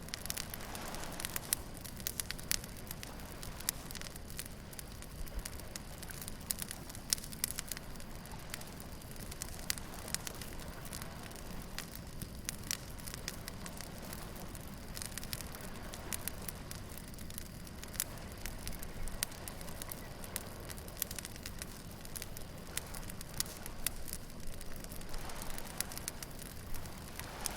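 Wood bonfire crackling, with many sharp irregular pops, over a steady low rush of waves breaking on a beach that swells a little near the start and near the end.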